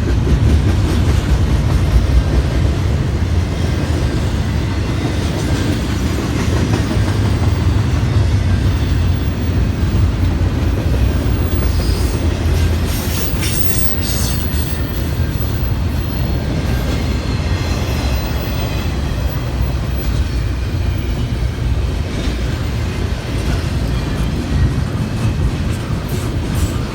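Freight train cars rolling past on the CN line, a steady heavy rumble with wheels clicking over the rail joints. Strong wind buffets the microphone, and a faint high-pitched squeal comes and goes around the middle.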